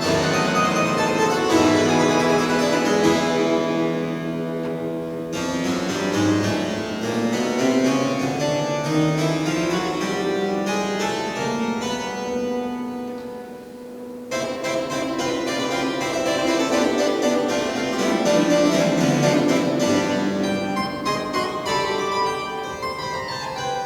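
Restored church pipe organ playing a classical piece, with sustained chords and running scale passages that climb and descend. About five seconds in the sound turns softer and duller, then bright again after about fourteen seconds, as a change of registration would make it.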